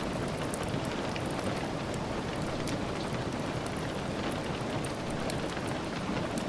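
Steady rain falling, with many small drop ticks over an even hiss. Soft crackles from a fire may be mixed into the ticks.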